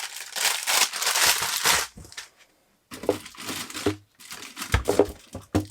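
Plastic food packets and wrappers crinkling and rustling as they are handled. After a short pause, more rustling with a few dull knocks.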